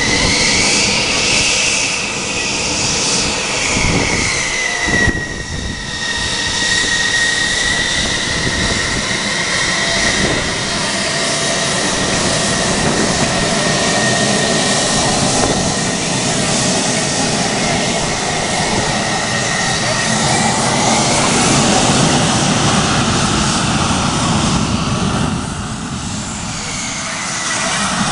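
F-16 fighter jet's engine noise: a loud, steady roar with a high whine running through it that bends up and down in pitch as the jet moves, then holds level, easing briefly near the end.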